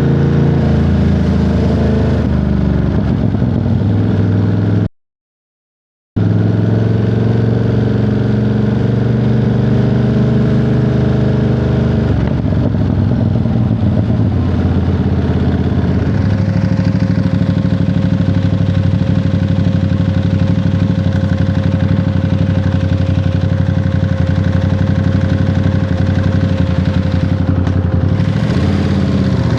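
Ducati Monster 937's L-twin engine running under a rider on the road, its note stepping in pitch a couple of times and then holding steady with a thin whine over it. The sound cuts out completely for about a second, around five seconds in.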